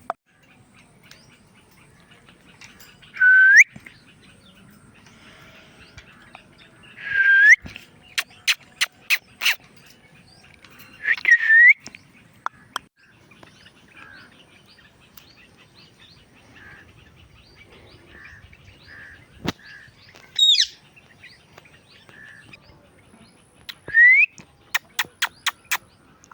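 Indian ringneck parakeet giving loud, short upward-sweeping calls every few seconds, with soft chirps in the quieter stretch. Two quick runs of sharp clicks come between the calls, one after the second call and one near the end.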